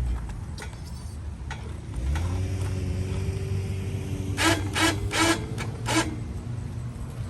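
Harbor Freight winch running with a steady motor hum from about two seconds in, broken by four short, loud rasping bursts a little past halfway.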